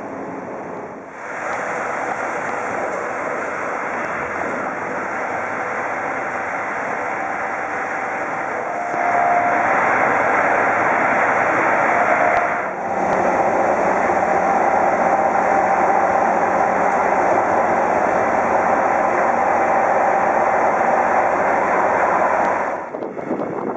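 Steady rushing running noise of the sleeper train heard inside the carriage, with a faint steady whine; it grows louder about nine seconds in, dips briefly, and cuts off suddenly near the end.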